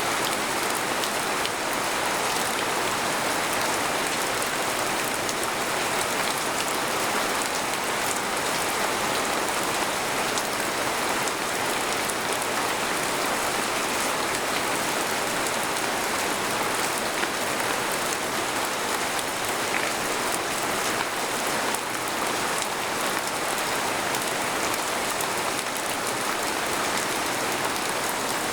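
Steady rain falling on a tent, heard from inside as a dense, even patter of drops.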